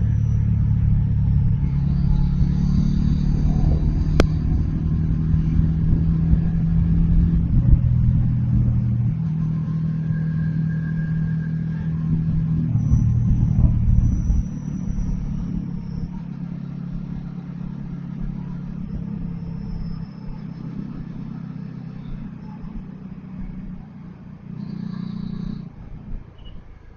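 Bajaj Dominar 400's single-cylinder engine running under way, heard from on board the motorcycle. Its note is strong for the first half, then turns quieter and lower from about halfway through.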